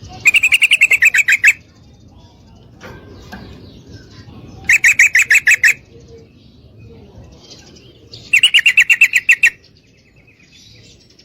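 Female yellow-vented bulbul (trucukan) calling: three bursts of quickly repeated sharp notes, about ten a second, each burst lasting about a second and coming a few seconds apart. It is the female's call used to rouse males into singing.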